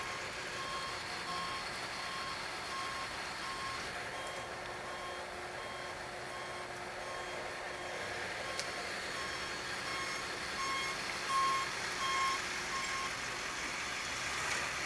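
Vehicle reversing alarm beeping in evenly spaced beeps, a little more than one a second, over steady street traffic noise. The beeps stop about 13 seconds in.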